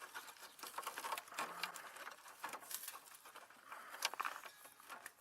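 Gasoline pattering and dripping from a loose, leaking fuel line fitting under the car, with faint irregular ticks.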